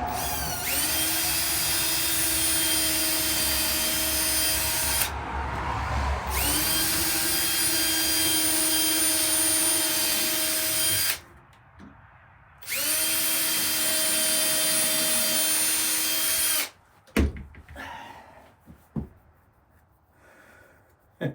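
Electric drill running in three steady runs of about four to five seconds each, its motor whine rising as it spins up at the start of each run. A few light knocks follow near the end.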